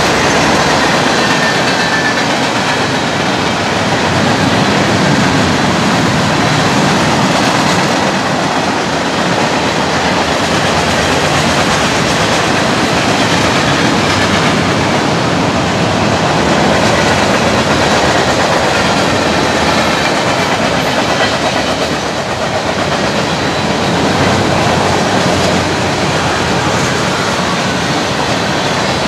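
Freight train cars rolling past, a loud, steady noise of steel wheels on the rails.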